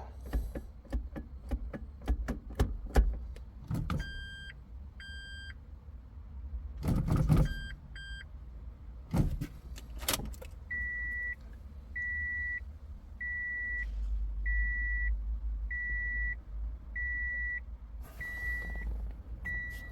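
Toyota MMT car's warning beeper sounding a steady series of short beeps, a little under one a second, after a few clicks and two short higher beeps earlier on. It signals that the semi-automatic gearbox's control unit is entering the '4 minuses' calibration procedure. A low steady hum joins partway through.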